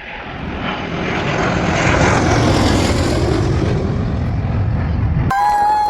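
Aircraft engine roar as a plane flies past, building over about two seconds and then holding steady before cutting off abruptly. A short steady high tone follows near the end.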